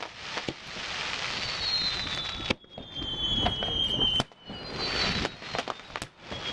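Fireworks display: a dense crackle of bursting shells punctuated by several sharp bangs, with thin whistling tones drawn out through the middle.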